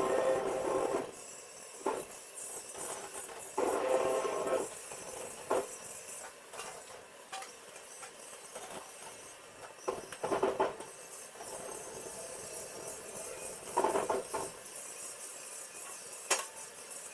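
Metalworking noise in a welding shop: a steady high hiss with short metallic clangs or scrapes every few seconds, some of them ringing briefly.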